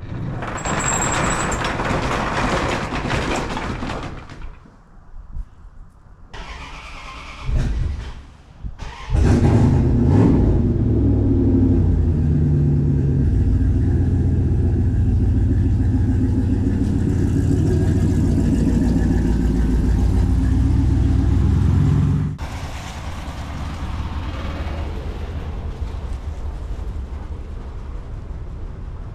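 Ford F150 pickup truck's inline-six engine starting about nine seconds in and running steadily for about thirteen seconds, then cut off abruptly. Before it come shorter stretches of noisy shop sound.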